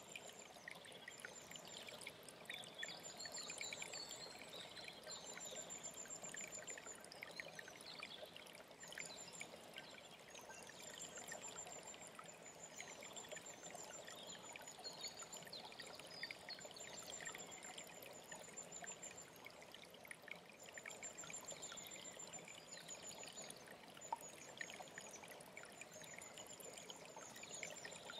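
Mountain stream running steadily, with wild birds singing over it. A high, thin trill comes every few seconds, with other warbling phrases in between.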